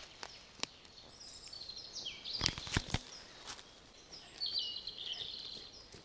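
Songbirds singing in a pine forest: short high chirping phrases that fall in steps, one group about a second in and another about four and a half seconds in. Three sharp snaps stand out about two and a half to three seconds in.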